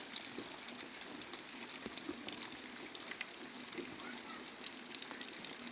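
Steady patter of rain, with many small drop ticks scattered through it.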